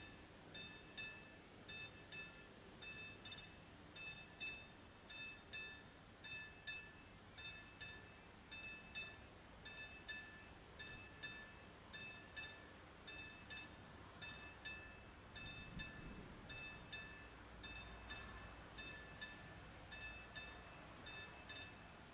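Classic warning bell of a level crossing with AŽD 71 lights, ringing steadily at about two strokes a second. It means the crossing is active for an approaching train. A faint low rumble rises about two-thirds of the way through.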